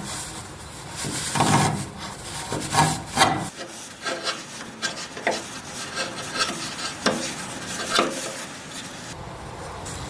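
A hand tool scraping and rubbing on wood in irregular strokes. The strokes are heavier in the first few seconds, lighter after that, and stop near the end.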